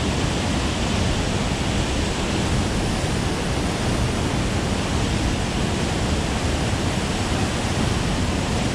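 Steady rush of water released through a dam's spillway flood gates, with the gates at their minimum opening.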